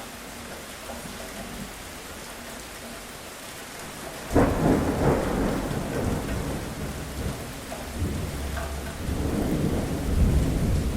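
Steady rain with a sudden thunderclap about four seconds in that rolls on as low rumbling, swelling again near the end.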